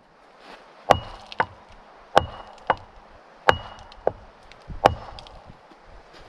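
Wood being chopped with an axe: four heavy blows about 1.3 seconds apart, each followed by a lighter knock, the heavy ones leaving a brief high ring.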